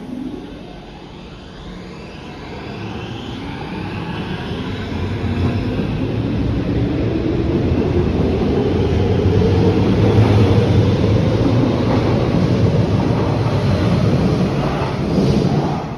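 Electric train pulling away and accelerating, its motor whine rising slowly in pitch as the running noise builds to a steady loud rumble, then falling away near the end.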